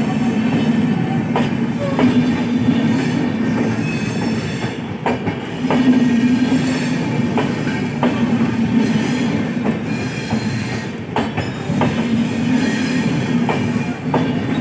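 Train running at speed: a steady loud rumble with sharp clicks about once a second as the wheels pass over rail joints, and faint high wheel squeal.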